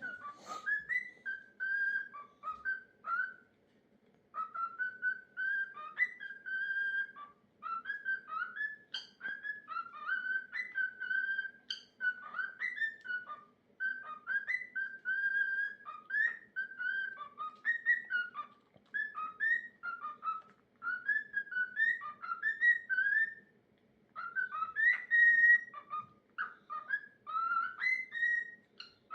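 Male cockatiel singing his own song: runs of quick whistled notes warbling up and down, in phrases of a few seconds broken by short pauses. A faint steady hum sits underneath.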